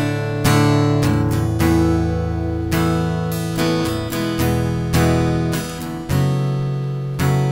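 Acoustic guitar strumming chords, a new chord struck about once a second and left to ring: the chorus progression of A suspended, E major, F sharp minor with open E and B strings, and D suspended.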